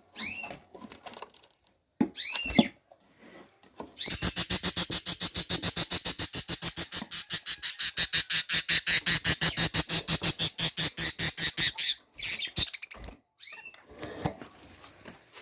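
Cage birds calling: short arching chirps, then a fast, even rasping chatter of about six pulses a second for some eight seconds, then more chirps near the end.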